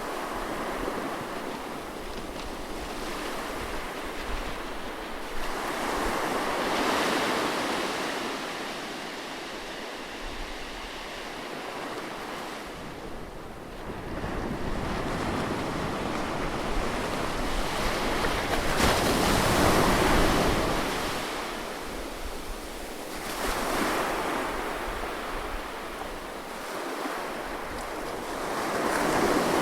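Ocean waves breaking and washing up on a beach in repeated swells every few seconds, with the strongest wave about two-thirds of the way through. Some wind rumble on the microphone underneath.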